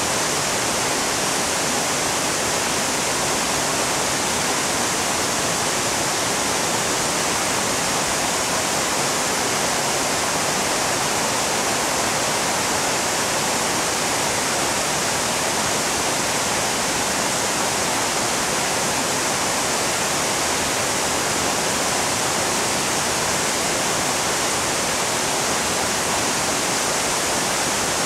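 Waterfall: a steady, unbroken rush of falling water, strongest in its high hiss.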